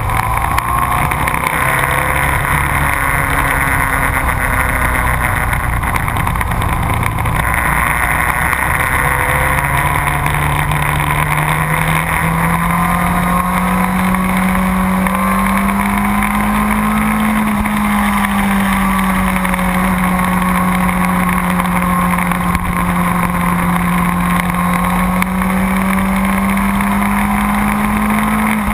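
Motorcycle engine running hard around a race track, its revs stepping up and down in the first seconds, then climbing slowly, easing off briefly and climbing again.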